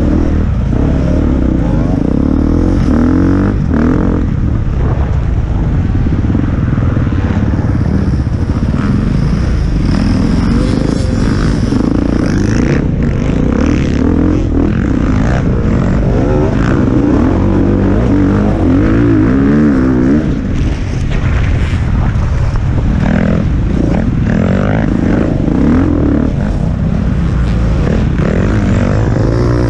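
Enduro dirt bike engine running hard and revving up and down as it is ridden over a muddy off-road track, heard close from a camera mounted on the bike.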